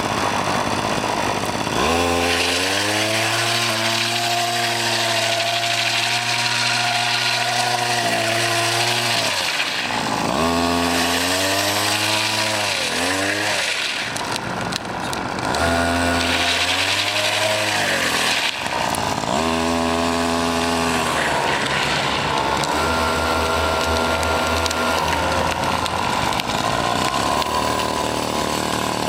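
Small 52cc two-stroke grass-trimmer engine on a homemade drift trike revving up and down in four long throttle surges, each rising in pitch, holding, then dropping away. Near the end it settles to a lower, steadier run.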